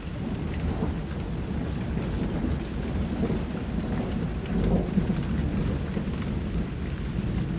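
Steady rain, with a deep rumble underneath that swells about halfway through.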